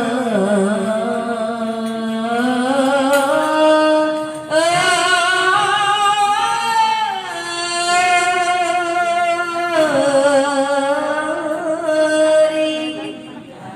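A woman's voice chanting an Arabic maulid sholawat, long drawn-out notes that glide between pitches with a break for breath about four and a half seconds in and again near ten seconds, with no drums.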